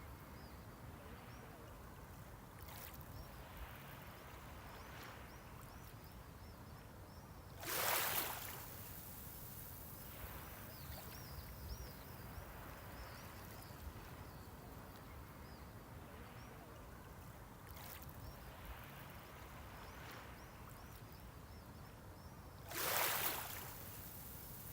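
Small waves breaking on the shore twice, about fifteen seconds apart, each a brief rush of surf over a steady low wash of the sea.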